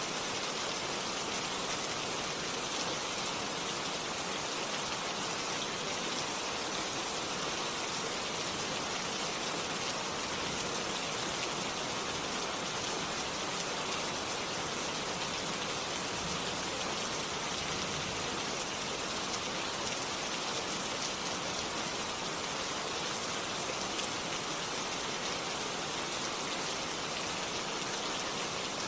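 Steady rain falling, an even patter with no thunder and no single louder drops.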